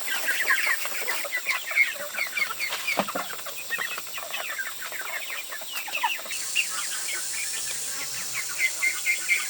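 A brood of ducklings peeping continuously, many short high calls overlapping, with a single knock about three seconds in.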